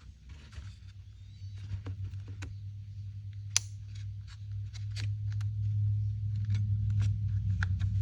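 Small sharp clicks and taps of an Echo CS-355T chainsaw's top-handle parts (trigger, spring and handle housing) being fitted together by hand, one louder click about three and a half seconds in. Beneath them runs a low steady hum that grows louder.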